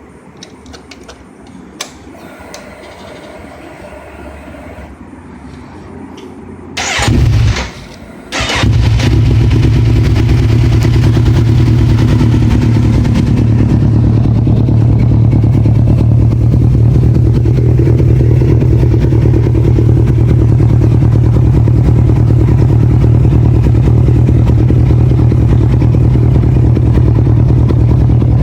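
Kawasaki Z1000 inline-four motorcycle with a Two Brothers aftermarket exhaust being started: after a few quiet seconds with faint clicks, it fires loudly for about a second, drops away, then starts again and settles into a steady loud idle.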